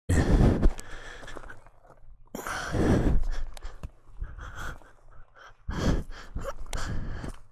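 A person breathing hard close to the microphone, with about four loud breaths spread over several seconds.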